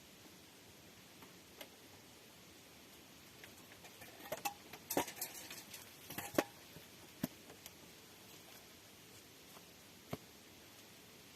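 Scattered faint clicks and ticks, with a brief cluster of sharper crackles and clicks near the middle.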